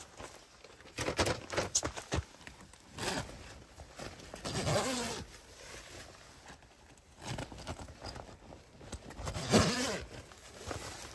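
A dog vocalising in two drawn-out whines, about four seconds in and again near the end, among scattered knocks and rustles.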